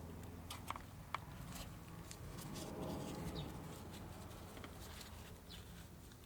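Scattered light clicks and taps of small parts being handled at a workbench, over a steady low hum, with a soft rustle about three seconds in.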